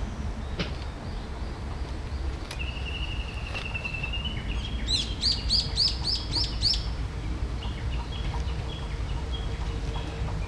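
A songbird singing: one long steady whistle, then a quick run of six rising notes, followed by fainter repeated chips. A low outdoor rumble runs underneath.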